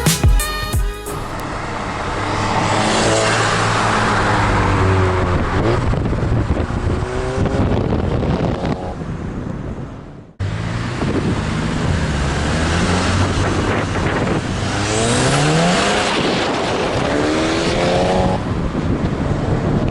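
Volkswagen Scirocco R's turbocharged four-cylinder, with its exhaust resonator removed for a near straight-pipe, accelerating hard several times, its note rising with each pull through the gears. There are two separate runs; the first fades away before it cuts off abruptly about halfway through.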